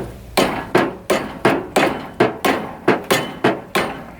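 A hammer striking a stuck part on a John Deere 1010 tractor during engine removal: a quick run of about a dozen hard blows, roughly three a second, to drive the seized part loose.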